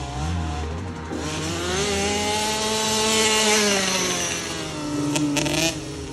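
Small two-stroke youth motocross bike engine revving: its pitch climbs over the first two seconds, holds, then falls back, and the sound cuts off sharply near the end.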